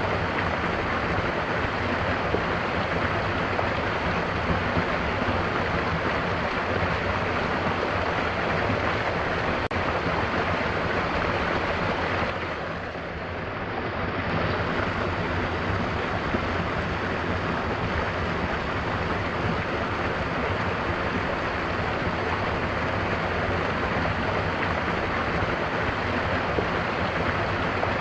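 Mountain waterfall: a steady rush of falling water that dips briefly in level about halfway through.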